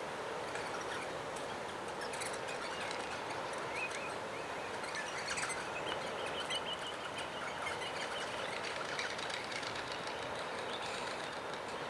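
Steady outdoor background hiss and rumble, with faint, short bird chirps about a third of the way in and a quick run of them in the middle.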